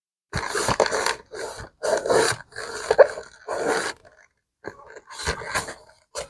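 Handling and rubbing a vintage leather Swiss Army bag: a series of irregular scraping and rubbing strokes, each about half a second long. They start abruptly about a third of a second in.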